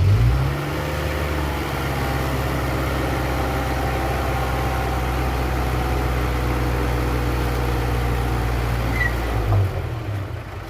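Diesel engine of heavy earthmoving machinery running steadily. It is louder for a moment at the start and again briefly near the end, then drops off.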